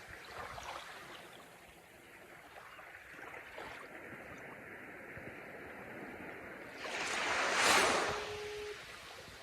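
Ocean surf washing on the shore, a steady rush with one wave surging up loudly about seven seconds in and then easing off. A faint steady tone sounds briefly near the end.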